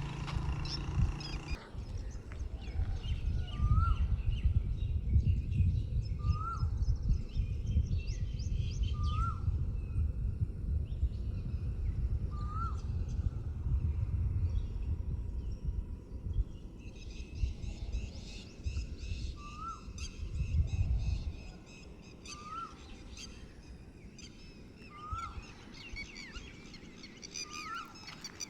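Morning birdsong: one bird repeats a short, hooked, rising call about every three seconds while other birds chirp higher up. A low background rumble runs under it and drops away about two-thirds of the way through.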